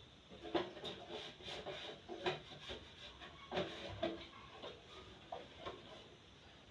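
Soft knocks, clicks and rubbing of things being handled and wiped, with a few sharper knocks about half a second, two and three and a half seconds in.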